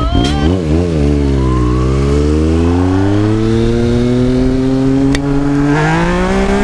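Yamaha MT-09's three-cylinder engine: a few quick wobbles in revs at first, then the engine note climbing steadily in pitch over several seconds, rising a little more near the end.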